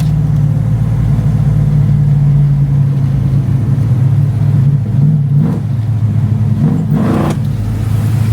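Holden HQ Monaro's engine running steadily at low revs while cruising slowly, with two short revs about five and seven seconds in.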